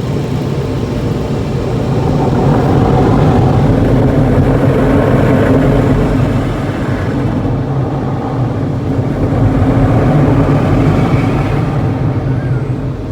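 Steady mechanical rumble and hum of car wash machinery and the car, heard from inside the car. It grows louder about two seconds in and eases near the end.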